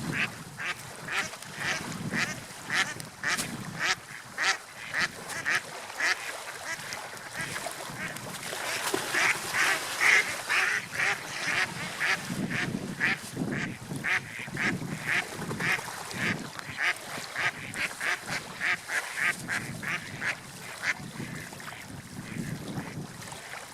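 Ducks quacking in a long, quick series of short calls, about two or three a second, over a low wash of water.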